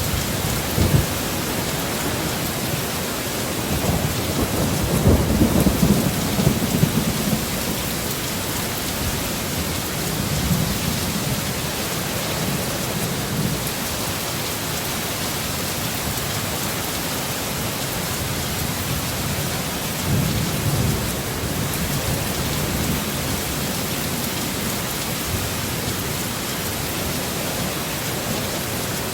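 Heavy rain pouring steadily, with low rumbles of thunder rolling in about four seconds in, again around ten seconds, and once more near twenty seconds.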